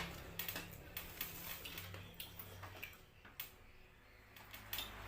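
Close-up eating sounds: irregular small clicks and smacks of chewing and mouth noises from someone eating curried fish head.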